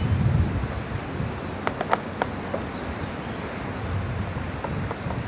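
Steady high-pitched insect drone with wind rumbling on the microphone, and a few sharp clicks about two seconds in.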